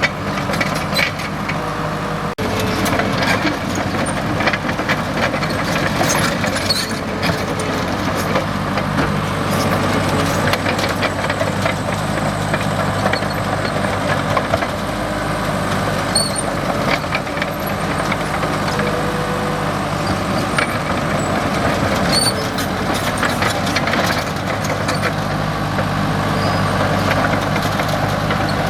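Komatsu D37EX crawler bulldozer's diesel engine running steadily while working, with many scattered clanks and rattles.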